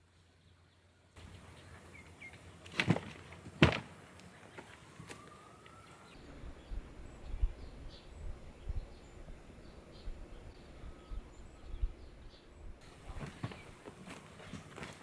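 Quiet outdoor garden ambience in short cuts: two sharp clicks, a brief rising bird-like chirp, then faint irregular low knocks with a few faint high chirps.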